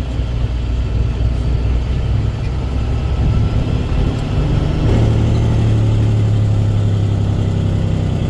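Dump truck's diesel engine running steadily. About five seconds in, the engine note changes to a stronger, steady hum that holds.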